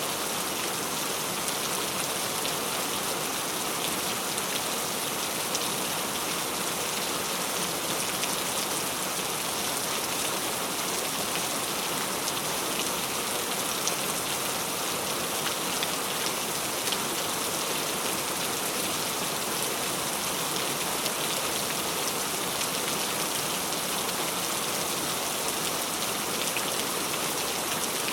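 Heavy rain falling steadily, a dense even hiss of drops striking surfaces with faint individual drop ticks.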